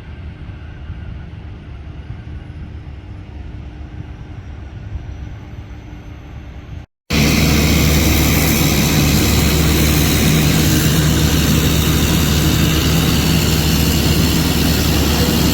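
Jet airliner engines heard as a low rumble with a faint, slowly rising whine. About seven seconds in, an abrupt cut gives way to much louder, steady jet engine noise with a low hum underneath.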